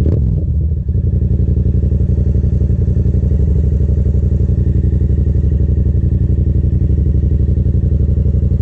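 Yamaha FZ-07's parallel-twin engine idling steadily; it restarted and runs after the bike was crashed.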